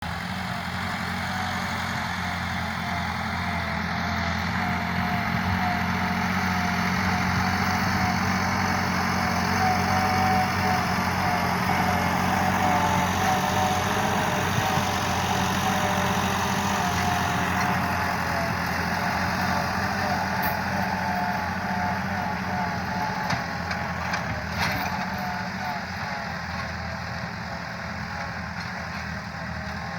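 Massey Ferguson 385 tractor's four-cylinder diesel engine running steadily, a little louder through the middle and easing off in the second half.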